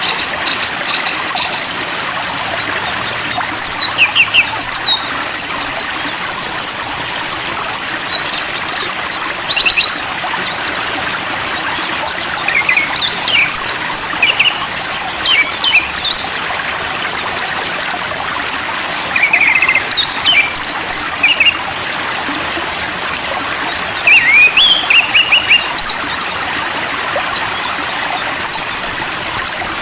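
A songbird sings in repeated bursts of quick, varied high whistles and trills, with pauses of a few seconds between phrases, over a steady rush of running water.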